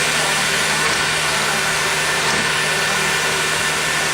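Steady engine-like running drone with a constant hiss over it, unchanging throughout.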